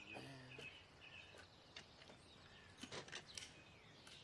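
Quiet outdoor ambience with small birds chirping, mostly in the first second or so. A handful of short clicks or knocks follow near the middle and later on.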